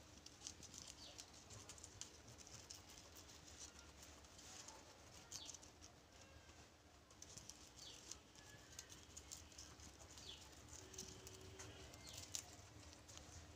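Faint scattered rustling and clicking, with a few short, high-pitched chirps that fall in pitch, over a faint steady hum.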